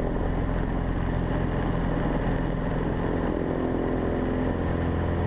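Cessna 150's four-cylinder Continental O-200 engine and propeller running steadily at full take-off power, heard from inside the cockpit during the take-off roll.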